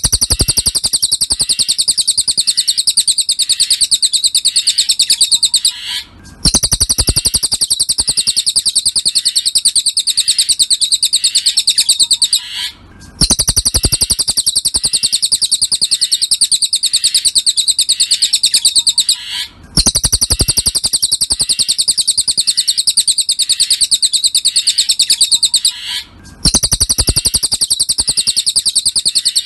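Recorded song of a cililin (Javan pygmy bushtit), a rapid, high-pitched chattering trill in long phrases of about six seconds, each broken off by a short pause and started again, as in a looped tutor recording used to train songbirds.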